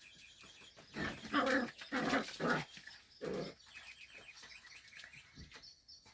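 Six-week-old doodle puppies giving four short cries, spread over the first three and a half seconds or so, then only faint sounds.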